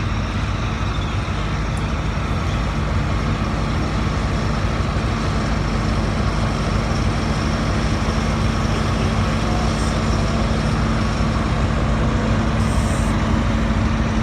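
An engine running steadily: a constant low hum over a noisy rush, with no change in speed.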